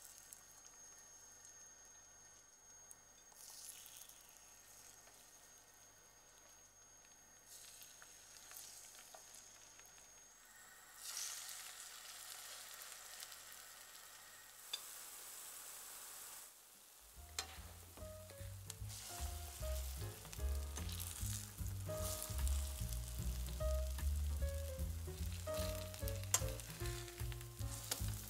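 Zucchini fritters frying in shallow oil in a nonstick pan: a sizzle, faint at first and louder from about eleven seconds in. Background music with a beat comes in about two-thirds of the way through.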